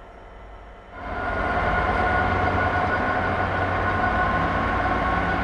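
A train passing through. The noise rises suddenly about a second in to a loud, steady running sound with a whine of several steady tones on top.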